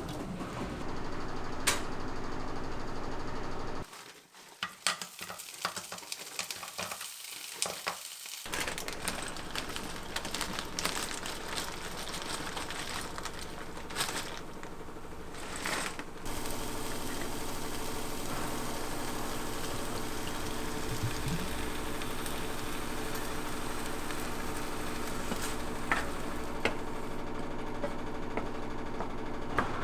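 Steady sizzling, as of food frying in a pan, with scattered clicks and knocks of kitchenware; it drops away briefly about four seconds in.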